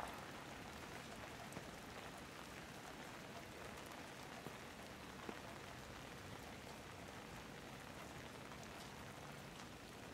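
Steady rain falling, a faint even hiss with a few single drops ticking a little louder now and then.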